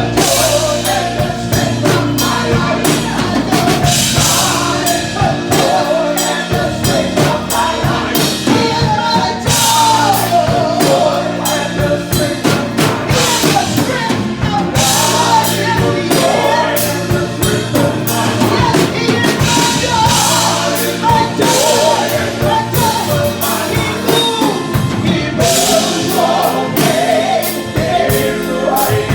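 Live gospel music: a woman singing lead over a church band with drum kit and sustained keyboard chords, and voices joining in.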